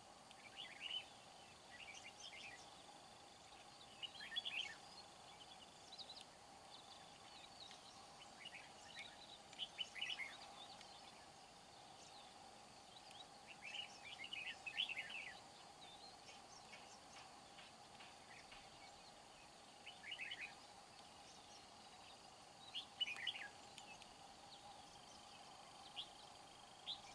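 Red-whiskered bulbuls calling: short bursts of quick chirps every few seconds, some louder than others, over a faint steady hum.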